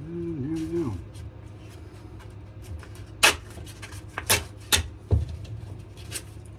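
A short hum from a man's voice at the start. Then, in the second half, about five sharp clicks and knocks of tools and materials being handled and set down on a workbench.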